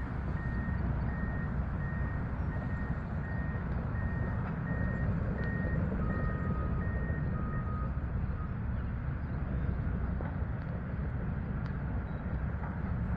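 Heavy construction machinery engine running steadily while a reversing alarm beeps at an even pace, about three beeps every two seconds. A second, lower-pitched backup alarm sounds a few times about halfway through, and both alarms stop shortly after, leaving the engine running.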